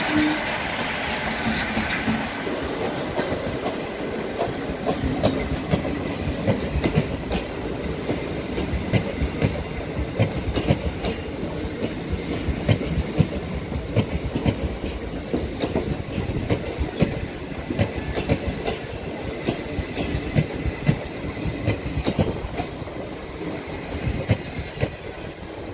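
Indian Railways passenger train hauled by an electric locomotive passing close by: the coaches' wheels clatter over the rail joints in a steady, dense run of clicks, easing a little near the end.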